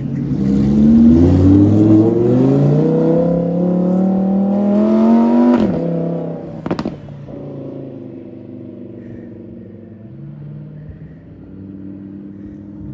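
High-performance car engine accelerating hard, its pitch climbing steadily for about five seconds before an upshift drops it sharply. A single sharp crack follows about a second later, then the engine runs lower and steadier as the car pulls away.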